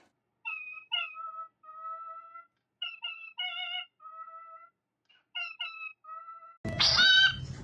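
A pet animal's meow-like calls in three groups of short, short, long, then a louder, harsher call near the end.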